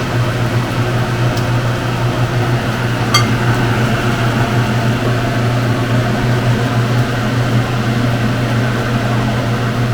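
Steady low hum of a running fan over an even hiss, with one light click about three seconds in.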